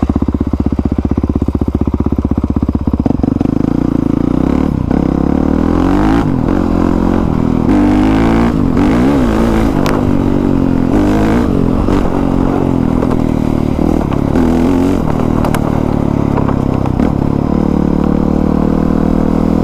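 Honda CRF450R's 450 cc single-cylinder four-stroke engine running, its revs rising and falling with throttle changes.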